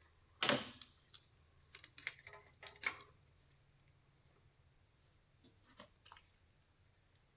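Scattered light clicks and short rattles of hand tools and parts being handled at close range. The sounds come in two clusters, the densest in the first three seconds and a few more around six seconds in.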